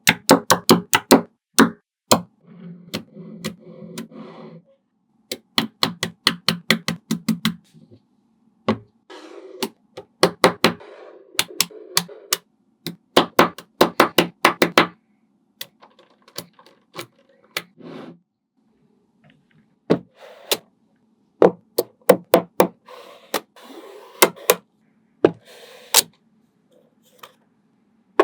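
Small magnetic balls clicking sharply against one another as they are snapped into place, in quick runs of many clicks. Between the runs there is a softer low rumble.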